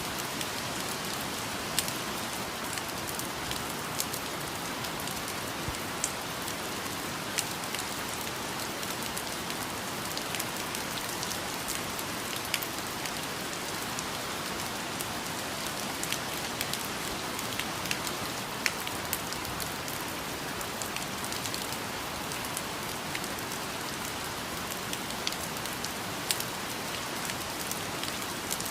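Steady rain with scattered sharp drops striking near the microphone.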